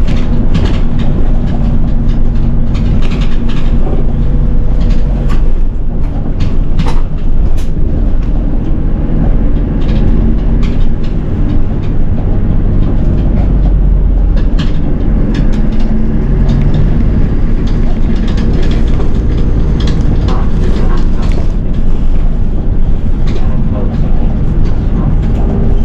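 City bus driving, heard from inside at the front: a steady engine hum with many short clicks and rattles from the cabin.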